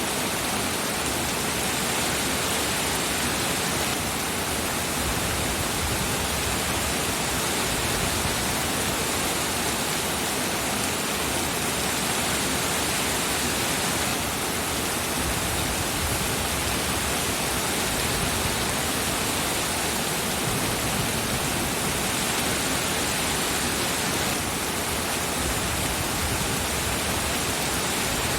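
Steady rain falling: a dense, even hiss with no single drops standing out.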